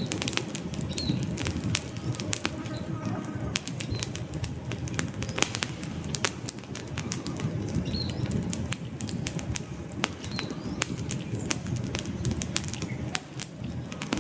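Wood fire burning in a fireplace: a steady low, fluttering rumble of flames with frequent sharp crackles and pops from the burning logs.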